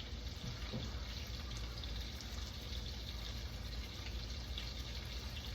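Faint, steady sizzling and simmering of a pan of butter-and-cream sauce on the stove.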